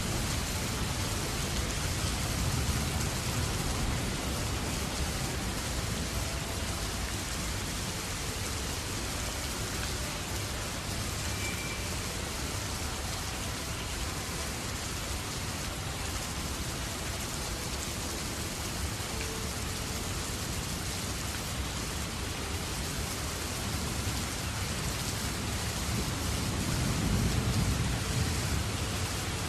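Steady heavy rain falling, an even hiss throughout. A low rumble swells up near the end.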